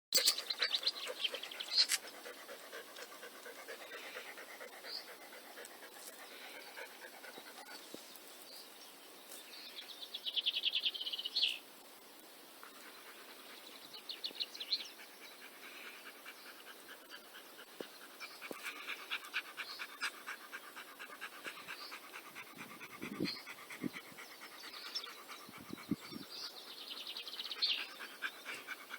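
Wild songbirds singing in chirps and trills, one bright trill standing out about a third of the way in, while a dog pants close by. Two soft low thuds come near the end.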